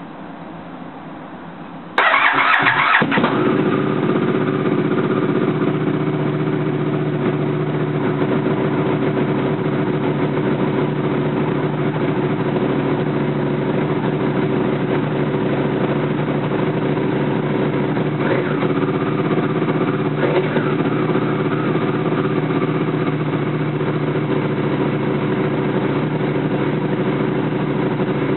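Buell 1125R's 1125 cc V-twin, breathing through a Barker slip-on exhaust with no quiet core, started up: it catches about two seconds in with a brief flare of revs, then settles into a steady, loud idle, with two slight rises in revs past the middle.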